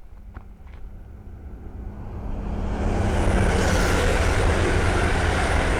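East Midlands Railway Class 222 Meridian diesel multiple unit approaching and passing. It grows louder over the first three seconds, then holds as a steady rush of wheel and diesel engine noise with a deep rumble.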